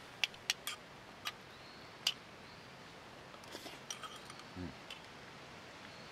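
A few sharp, separate clicks in the first two seconds, then softer scattered clicking and a brief low knock about halfway through.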